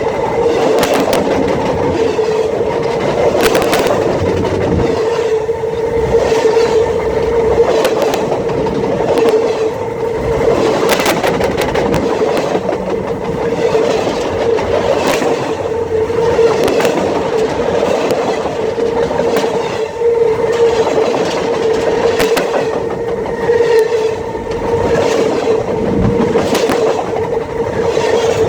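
Freight train cars rolling directly over the microphone: a loud, continuous rumble of wheels on rail with a steady ringing hum and repeated sharp clacks as the wheels pass.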